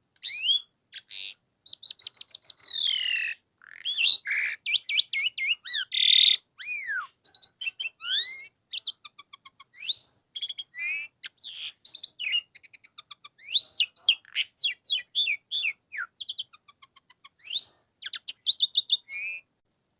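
Asian pied starling (jalak suren) singing a long, varied song of whistles, rising and falling glides, quick repeated notes and a few harsh notes, broken by short pauses and stopping just before the end.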